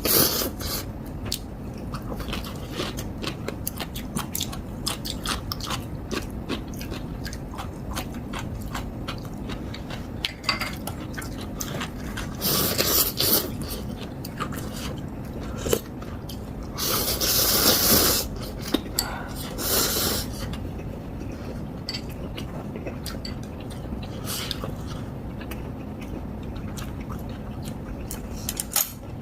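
Close-up ramen eating: steady chewing with many small wet clicks. Three louder noisy bursts of noodle slurping come about twelve, seventeen and twenty seconds in.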